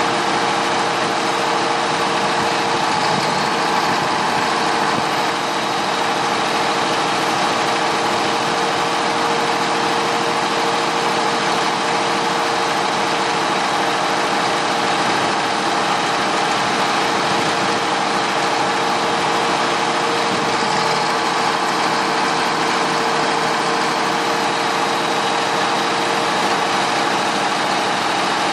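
Locomotive engine idling steadily: a constant drone with a few held tones that does not change.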